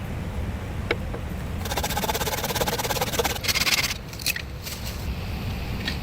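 Rapid, fast-repeating scraping for about two seconds, with a few sharp knocks before and after it, over a steady low wind rumble.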